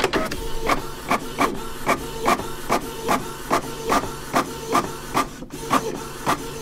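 A small machine running with a steady hum and a regular mechanical clack, about two and a half strokes a second.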